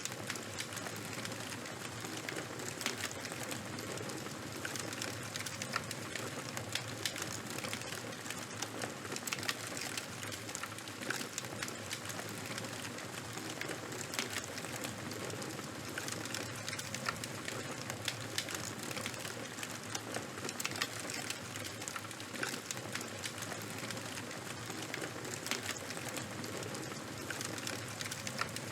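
Charcoal fire burning, with a steady hiss and frequent small irregular crackles and pops.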